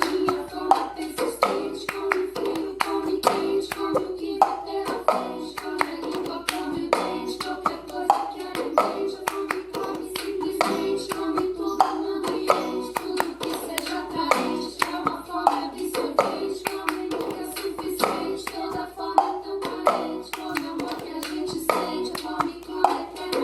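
A children's song with singing plays while a cup is struck on a table and hands clap in a repeating cup-game rhythm, sharp taps and claps falling several times a second throughout.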